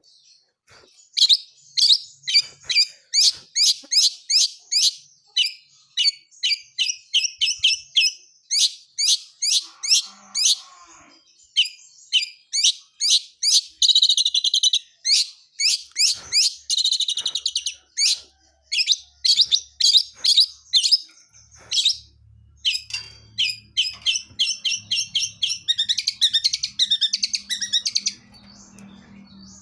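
Long-tailed shrike (cendet) singing non-stop: rapid runs of sharp, down-slurred chip notes, with fast trills about 14 and 17 seconds in and a stretch of denser, continuous warbling near the end.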